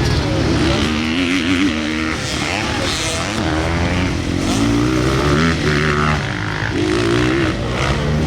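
Motocross bike engines revving hard, the pitch rising and falling repeatedly as the throttle is opened and closed.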